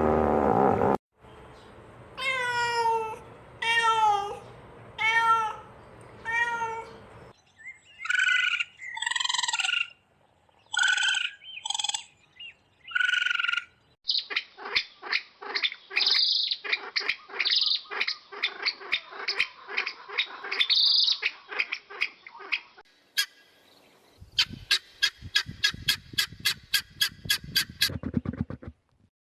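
A run of different animal calls edited one after another. First come five evenly spaced pitched calls, then a different set of calls, then a long stretch of rapid chattering pulses, and last a fast series of sharp clicking pulses.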